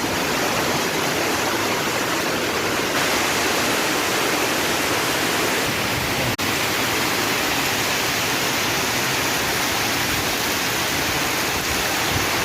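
Torrential rain pouring down in a steady, dense rush of noise, cut by a momentary dropout about six seconds in.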